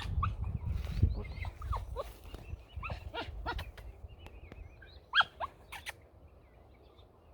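Wind buffeting the microphone, dying away after about three seconds, with birds calling in many short downward-sliding notes, the loudest about five seconds in.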